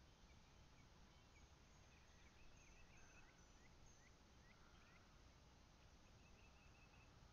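Near silence with faint, scattered high bird chirps, a cluster of quick short notes in the middle of the stretch.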